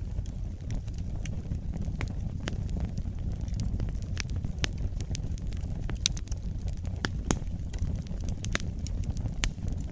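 Fire burning in a fireplace: a steady low rumble under irregular, sharp crackles and pops, the loudest coming about six and seven seconds in.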